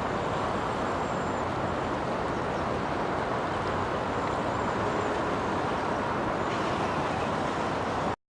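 Steady rush of river water, with a faint high whine that comes and goes twice. The sound cuts off suddenly near the end.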